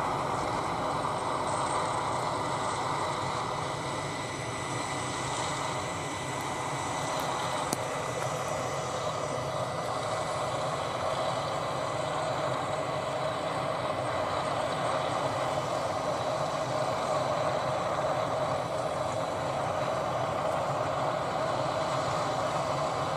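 Boeing 737-800's CFM56 jet engines running steadily, a constant high whine laid over a broad rush of engine noise.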